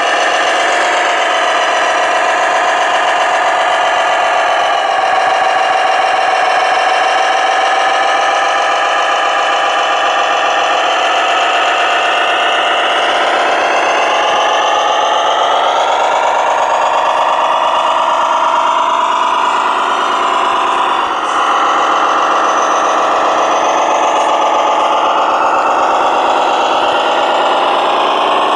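Radio-controlled model trucks running: a steady, high motor-and-gear whine whose pitch drifts up and down with the throttle, with a brief drop about 21 seconds in.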